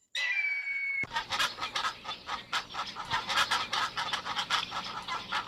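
Chickens clucking in rapid, overlapping short calls, after a high tone about a second long at the start.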